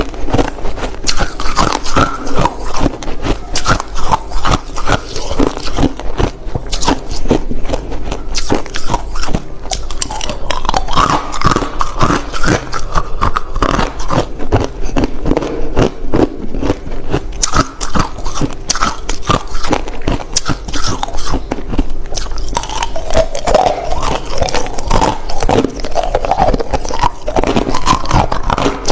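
A person biting and chewing hard, clear crushed ice close to the microphone: dense, irregular crunching and cracking that keeps up throughout.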